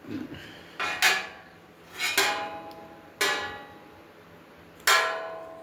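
Metal grill parts clanking together, about five separate knocks that each ring briefly, the loudest near the end.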